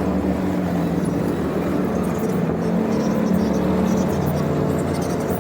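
Motorcycle engine running steadily while riding at road speed, its pitch holding fairly level.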